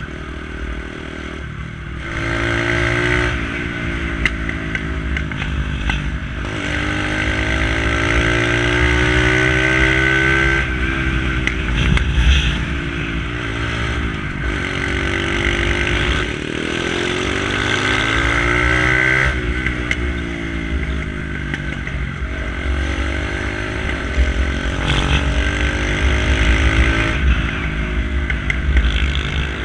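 Lexmoto ZSX 125 motorcycle with a straight-pipe exhaust being ridden, its 125 cc single-cylinder engine revving up and dropping back again and again as it goes through the gears. There are a few sharp cracks from the exhaust along the way.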